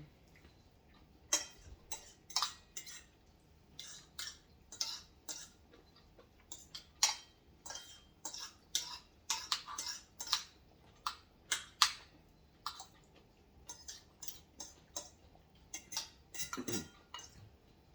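Cutlery clicking and scraping against dishes during a meal, in irregular sharp clinks about two or three a second.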